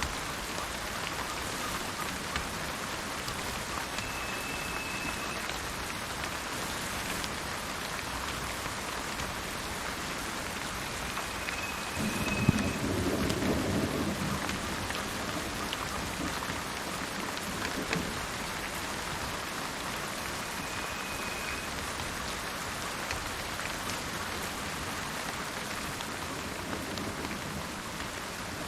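Steady rain falling, with a low rumble of thunder about twelve seconds in that fades over a couple of seconds. A bird gives a short, even, high whistle three times.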